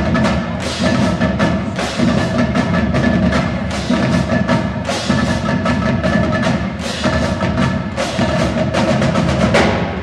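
Marching band drum line playing a fast, dense percussion passage, with held pitched notes sounding underneath.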